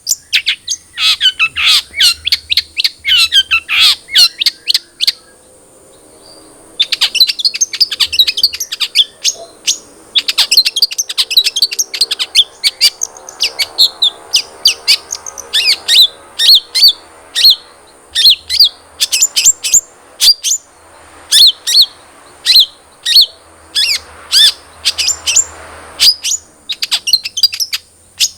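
Long-tailed shrike (cendet) singing: fast runs of sharp, chattering high notes with a short lull about five seconds in.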